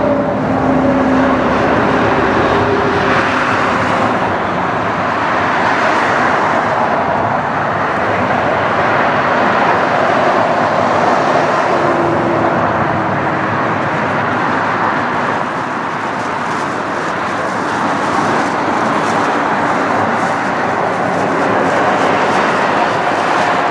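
Jet airliner engines running, a loud, steady rush of noise with faint held tones drifting in and out.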